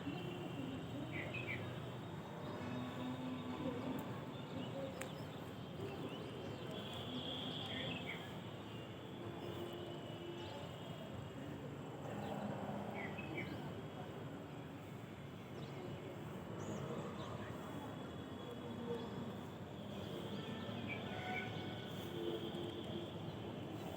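Outdoor morning ambience: a steady background hiss with short bird chirps now and then, and faint indistinct voices in the distance.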